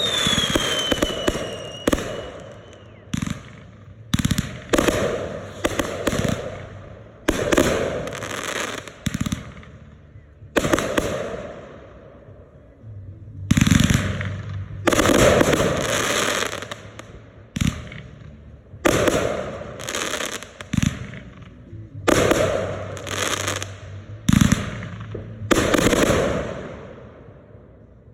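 Consumer aerial fireworks bursting in a steady string, about twenty sharp bangs roughly a second apart, each trailing off. There is a short lull near the middle, and a falling whistle at the very start.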